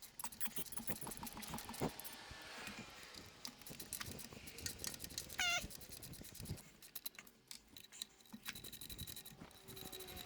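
Light, irregular clicking and clinking of hand work on the engine, with one short high squeak about halfway through.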